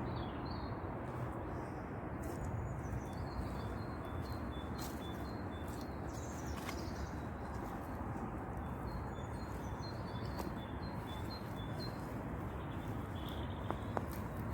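Songbirds chirping, with short high chirps repeated throughout, over a steady background hiss.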